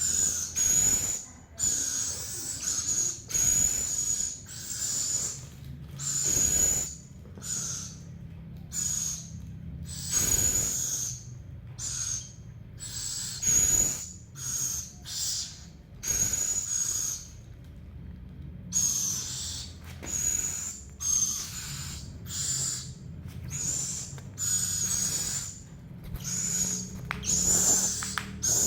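An owl giving short raspy calls over and over, about one a second, with a brief pause past the middle: hunger calls from an owl that is still very hungry.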